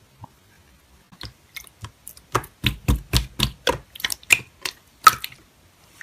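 Slime being pressed and squished by hand, making a quick run of sharp, sticky clicks and pops about three to four a second, starting about a second in.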